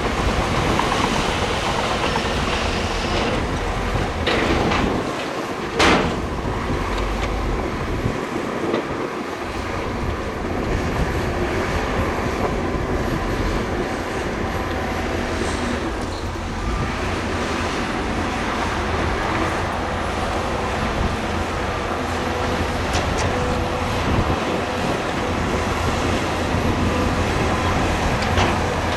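Heavy earthmoving machinery running steadily, with a low engine rumble and a continuous clattering rattle, and one sharp knock about six seconds in.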